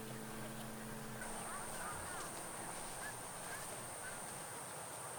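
Birds calling in short, repeated chirps over a steady high-pitched insect buzz. A low steady hum stops about a second in.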